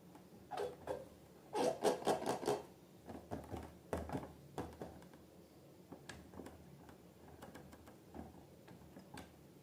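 Slime being squished and worked by hand: irregular bursts of small wet crackling clicks, thickest about two seconds in, then sparser.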